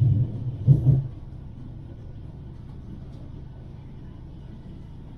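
Manchester Metrolink light-rail tram running along the track, heard from on board: a few heavy low knocks in the first second, then a steady low rumble.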